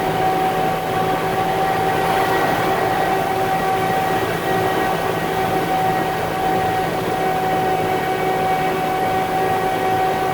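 Concrete mixer truck's diesel engine running steadily under load, with a steady whine held at one pitch over the engine note.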